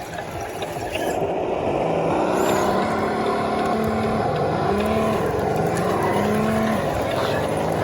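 Electric motor and gearbox of an HG P802 radio-controlled HEMTT M983 truck whining as it drives, the pitch shifting up and down with the throttle; it gets louder about a second in.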